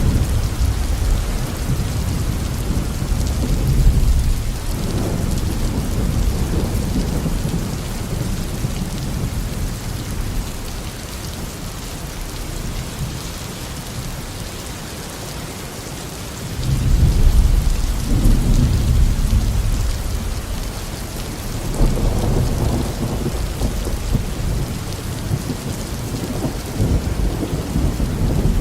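Steady tropical rain falling on a garden, with rolling thunder rumbling in several swells, loudest about four seconds in, at around seventeen seconds and again at twenty-two seconds, easing off to a lull in between.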